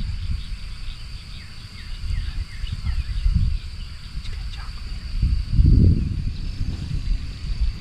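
Outdoor lakeside ambience: a small bird gives a run of short, quick chirps in the first few seconds over a steady high insect drone, with low gusts of wind rumbling on the microphone, strongest about six seconds in.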